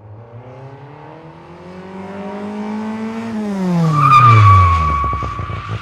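A car going by fast: the engine's pitch climbs steadily, then drops steeply as it passes, loudest at the pass. A high tyre squeal starts about four seconds in.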